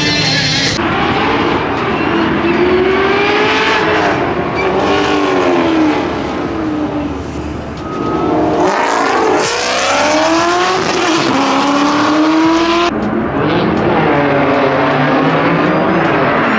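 Drift cars' engines revving hard, the pitch rising and falling again and again as they slide, over the hiss of tyre noise. The engine sound drops briefly about eight seconds in.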